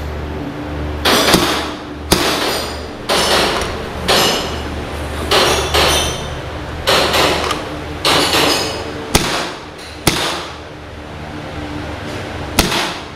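A string of gunshots, about one a second with a pause before the last, each followed by a short echo, over a steady low hum.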